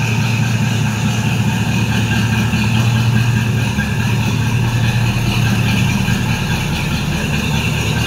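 A 1978 Jeep's AMC 304 V8 idling steadily through a new exhaust with Cherry Bomb mufflers.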